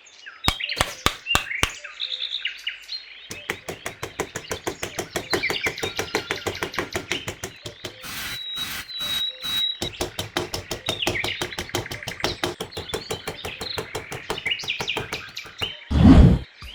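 Birds chirping over a long, fast run of sharp clicks or light knocks, with a few separate clicks in the first two seconds. A loud, low thump comes just before the end.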